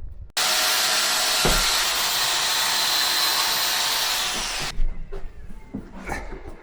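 Electric power saw cutting a panel for a worktop template. It starts suddenly, runs steadily with a high whine for about four seconds, then winds down and stops, followed by a few light knocks as the pieces are handled.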